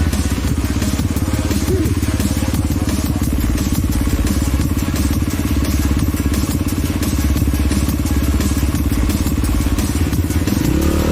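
Off-road vehicle engine running steadily under way, heard from on board.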